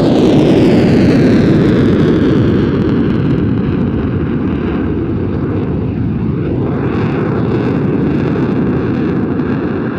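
Hungarian Air Force Saab JAS-39C Gripen's single jet engine sounding loud as the fighter passes, loudest just after the start. Falling pitch marks the pass, then the noise eases slowly as it moves away.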